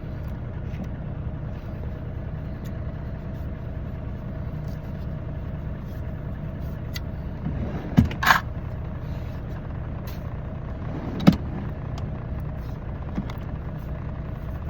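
Steady low hum of a semi truck's idling diesel engine heard inside the cab, with two sharp knocks about eight seconds in and one more about eleven seconds in.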